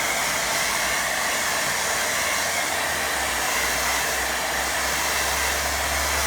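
Hair dryer running steadily, a constant even rush of air, being used to dry wet watercolour paint on the paper.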